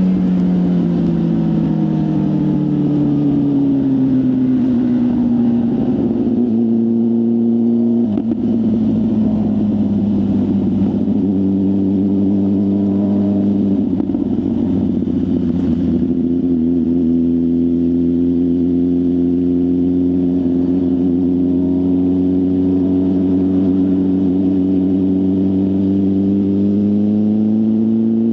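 BMW S1000RR inline-four engine through a full aftermarket exhaust, heard from the rider's seat. The engine note falls over the first few seconds as the bike slows, then settles into a steady cruise with short breaks about 6, 8 and 14 seconds in, and climbs slightly near the end.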